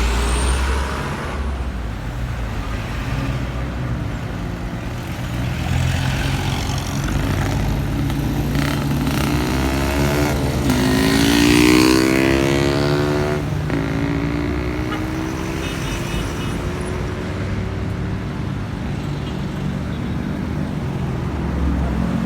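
Road traffic: vehicle engines running steadily, with one vehicle's engine rising in pitch as it accelerates past about halfway through.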